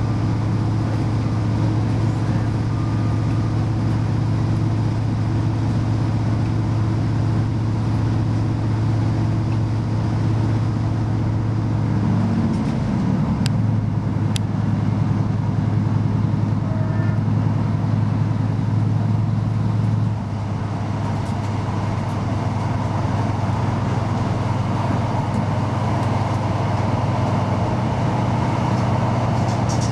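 Diesel passenger train heard from inside the carriage: a steady low engine hum over rolling rumble. The engine note wavers about twelve seconds in, two sharp clicks come soon after, and at about twenty seconds the sound drops slightly and settles on a new note.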